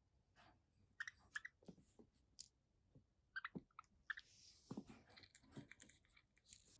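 Faint, scattered small clicks and taps of a budgerigar nibbling and clicking its beak, with a soft rustle about four seconds in.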